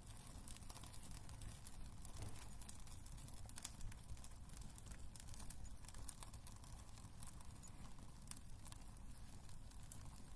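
Wood fire burning in a fireplace: a soft low rumble of flames with irregular small crackles and pops of the burning logs, one sharper pop about four seconds in.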